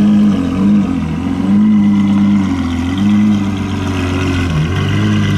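A car engine running low in the revs, its pitch swelling up and falling back several times, as with light throttle.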